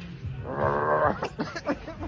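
A man's voice making a quavering, wavering-pitch vocal sound effect for about half a second, then a few short clipped vocal sounds, over a steady low hum.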